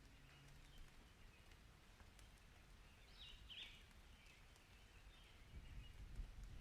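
Near silence: faint outdoor ambience with a couple of short high bird chirps a little past halfway, and faint low rumbling that grows near the end.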